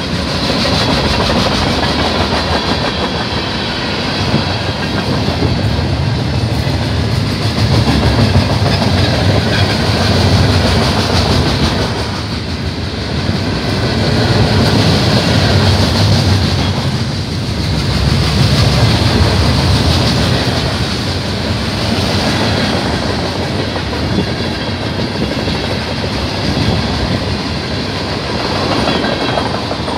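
Freight train cars rolling past close by: covered hoppers, gondolas and tank cars, their steel wheels clattering over the rail joints in a loud, continuous rumble that swells and eases every few seconds.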